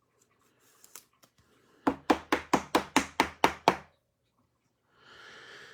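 A quick run of about nine even knocks on a hard surface, roughly five a second, lasting about two seconds, then a short breathy hiss near the end.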